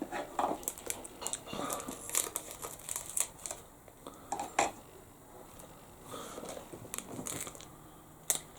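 Small plastic sachet of chili powder crinkling and rustling as it is flicked and handled, with scattered light ticks and taps.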